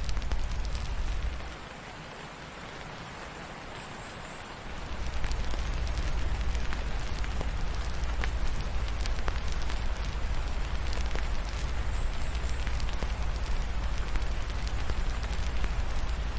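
Steady rain hiss mixed with the sharp, scattered crackles of a wood fire. A deep low rumble under it drops away for about three seconds near the start, then returns.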